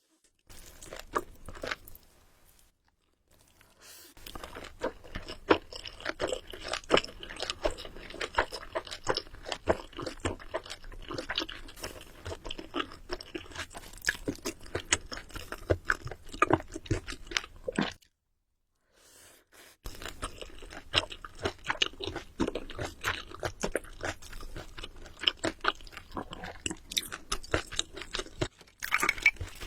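Close-miked chewing and crunching of food, with dense wet clicks and crackles from the mouth. It stops briefly twice, near the start and about two-thirds of the way through.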